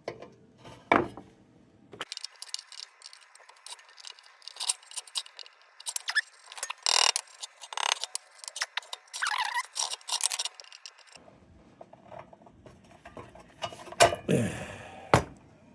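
Small metal lantern parts clicking, clinking and rattling as they are handled and worked on, in a rapid, irregular run of light taps.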